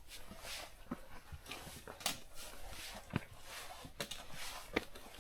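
Footsteps on a rocky mountain trail: sharp knocks about once a second, with hard, rhythmic breathing between them.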